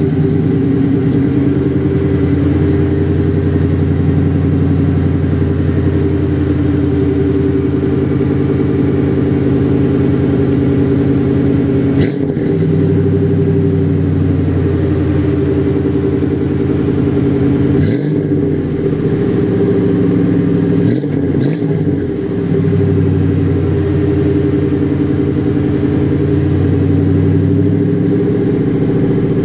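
1991 GMC Jimmy's engine running steadily just after being started. There is a sharp click about twelve seconds in, and a few brief dips and wobbles in the engine note later on.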